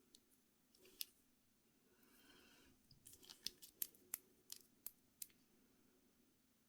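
Nail products and their packaging being handled: a soft rustle, then a quick run of about eight sharp clicks.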